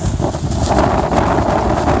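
Blizzard wind buffeting the microphone: a loud, rushing roar that picks up in a gust less than a second in.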